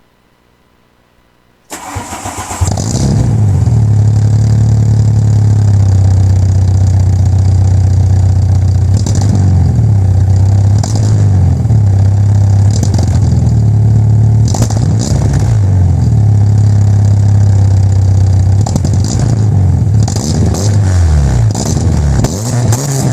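1994 Volkswagen Golf GTI's engine being started about two seconds in, catching after a brief crank, then idling through the exhaust with repeated short revs.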